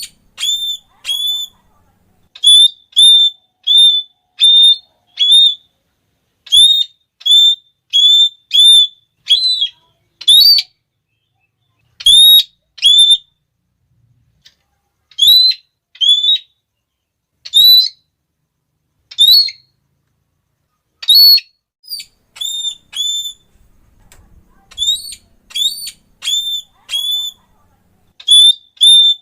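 Red-cheeked parrot calling: loud, shrill, short "klee" notes repeated about two a second in runs of several notes, with short pauses between runs, some notes rising sharply at the start.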